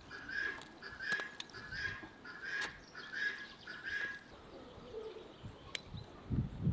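A bird repeating one short chirping note about twice a second for about four seconds, then stopping; a soft low thump near the end.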